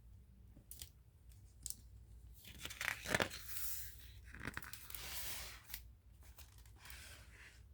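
Paper pages of a picture book being handled and turned: a few light clicks, then a longer rustle with several crisp peaks in the middle.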